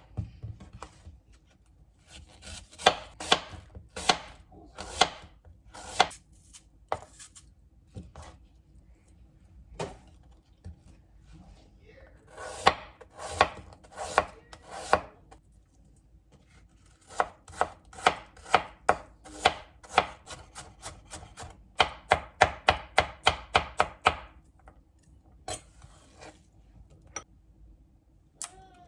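Kitchen knife chopping food on a cutting board, in several runs of sharp, even strokes with short pauses between them; the fastest run, about five strokes a second, comes a little past two-thirds of the way through.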